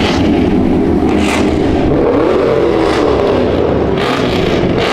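A loud V8 muscle car engine revving hard, its pitch rising and falling about halfway through.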